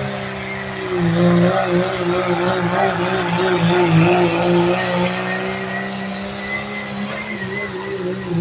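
Engine of a pulling vehicle held at high revs under heavy load while it drags a weight-transfer sled down the pulling track. Its pitch wavers rapidly through the middle of the pull.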